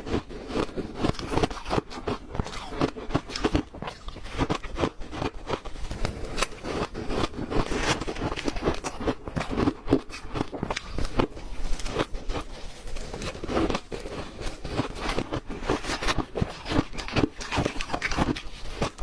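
Ice being chewed and crunched between the teeth: a dense run of irregular cracking crunches, several a second, without a break.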